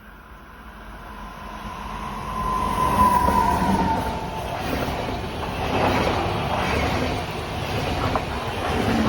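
A train approaching and passing close by. The sound builds over the first three seconds, with a high tone gliding slightly down as it nears. Then comes the steady rush and rumble of the cars going by.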